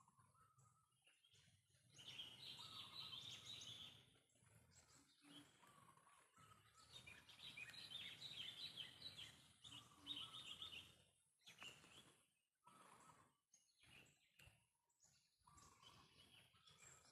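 A bird calling in fast chirping, twittering phrases, with two longer bouts about two seconds in and from about seven to eleven seconds, and short lower single notes between them.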